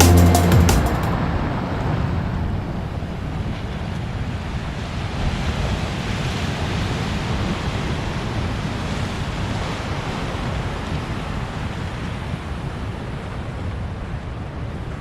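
Ocean surf washing onto a beach, with wind rumbling on the microphone. The tail of electronic music cuts out about a second in.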